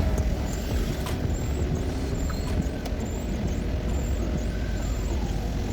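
Car driving: a steady low road and engine rumble, with a few short sharp clicks.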